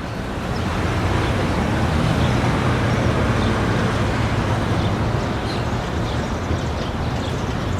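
City street ambience: a steady wash of traffic noise with a low rumble, swelling up over the first second and then holding steady.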